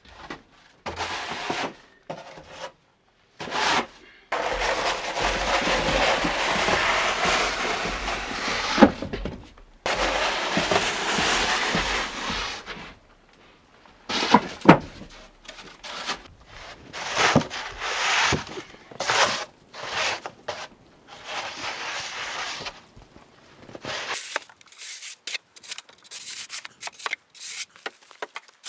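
Rubbing and scraping sounds: two long strokes of several seconds each, then a run of shorter strokes and clicks.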